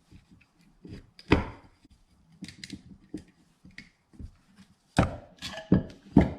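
Clunks and clicks of a GM alternator's parts and hand tools being handled during disassembly. There are scattered sharp knocks, a loud one about a second in and three more close together near the end.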